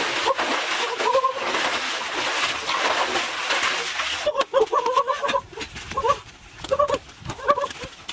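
Water splashing for about four seconds, then a quick run of short, high, pitched calls.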